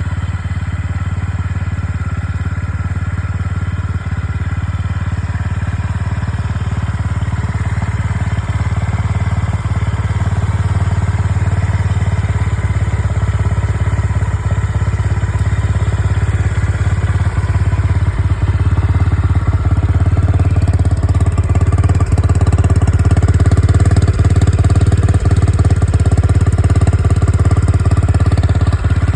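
Honda CB350 RS's 348 cc air-cooled single-cylinder engine idling steadily just after a cold start, growing slowly louder.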